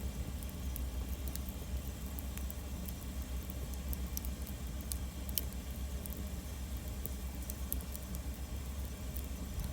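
Wood campfire burning and crackling, with sharp, irregular pops and snaps over a steady low rumble.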